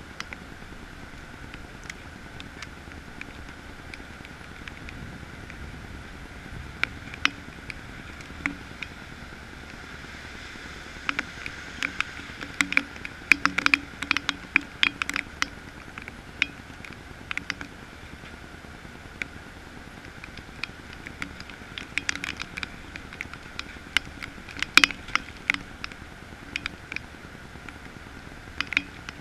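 Steady thunderstorm rain, with irregular sharp drops tapping close by. The drops come thickest in two spells, around the middle and again later on.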